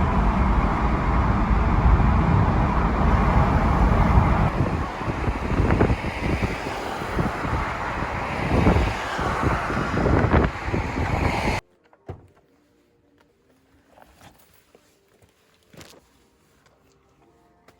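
Loud steady rumble of a moving vehicle, with a few knocks, that cuts off suddenly partway through; after it, quiet with a few faint clicks.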